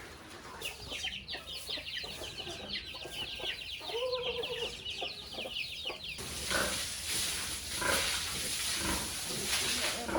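Chickens clucking, with a dense chatter of quick high chirps through the first half and a few lower calls. About six seconds in, a steady hiss takes over.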